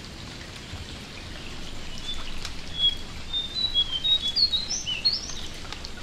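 A jongkangan bird singing a quick run of short whistled notes, starting about two seconds in and ending with a few sliding notes, over a steady patter of rain dripping.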